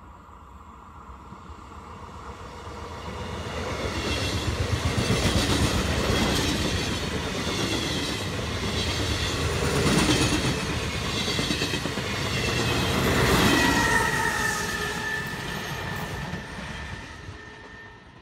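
A train passing by, growing louder, running loud through the middle and fading away, with a rhythmic clatter of wheels on the rails. A high steady tone rings out briefly a little after the loudest part.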